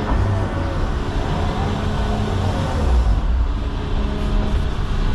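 John Deere 210 excavator's diesel engine running steadily, with a constant low hum and overtones.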